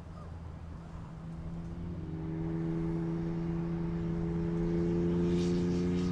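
A steady engine drone, growing louder over the first three seconds or so and then holding.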